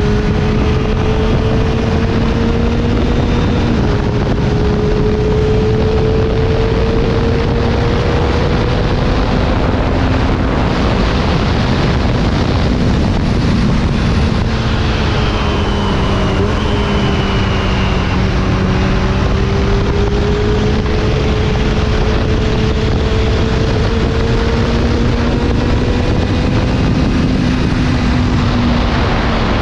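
Kawasaki ZX-25R's 250 cc inline-four engine with an Akrapovič exhaust running at moderate revs, its pitch drifting slowly up and down with a few small sudden jumps, under heavy wind noise on the microphone.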